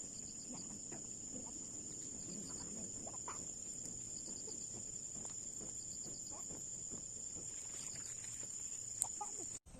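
Insect chorus: a steady high-pitched drone with short chirping trills every second or two, over scattered faint low animal calls. It cuts off abruptly near the end.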